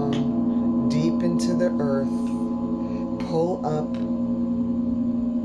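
Sound-healing instruments ringing: a steady drone with a strong low tone and many overtones, while higher tones slide up and down over it several times.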